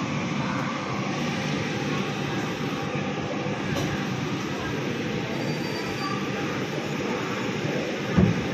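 Indian Railways passenger train rolling slowly, heard from an open coach doorway: a steady rumble and hiss of the wheels and running gear. A short low thump comes near the end.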